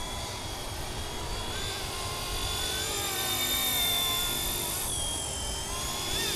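Radio-controlled MD 500 scale model helicopter in flight: a steady high whine over a low rotor rumble, the pitch dipping briefly about five seconds in and then rising again.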